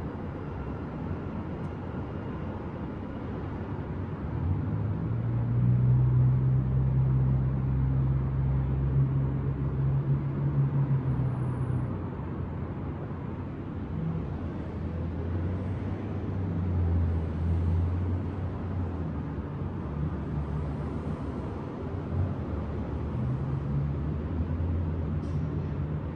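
City traffic: a steady low rumble with the engine hum of passing vehicles swelling about four seconds in, easing around twelve seconds, and rising again twice later.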